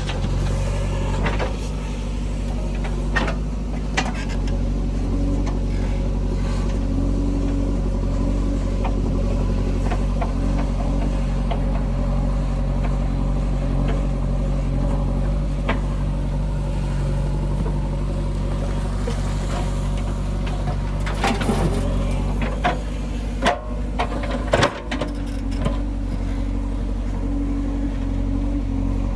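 Diesel engines of a backhoe loader and a tractor running steadily at a work site. A few sharp knocks and clatters come a little past the two-thirds mark.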